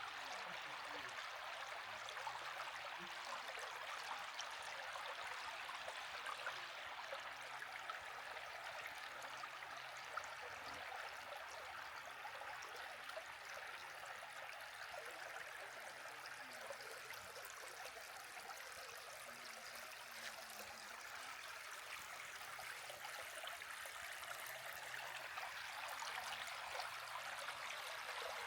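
A small woodland stream running, a steady rush of water with fine splashing.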